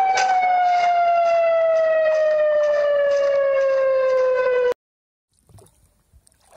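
Civil-defence tsunami warning siren sounding one long tone whose pitch slowly falls, cutting off abruptly about four and a half seconds in. Faint scattered sounds follow.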